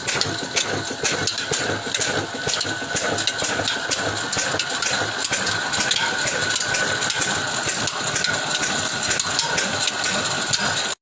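Antique engine running steadily with a rapid, even clatter and a steady whine over it.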